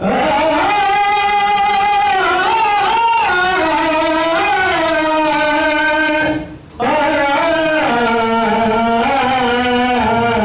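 A man singing solo in long, drawn-out notes with wavering pitch. There are two phrases, with a brief pause for breath about six and a half seconds in.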